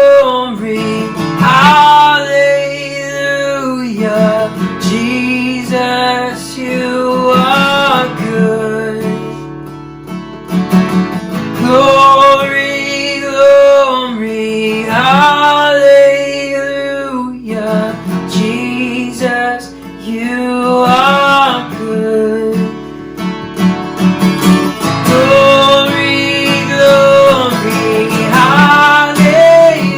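Worship song played on strummed acoustic guitar, with a voice singing a melody over it.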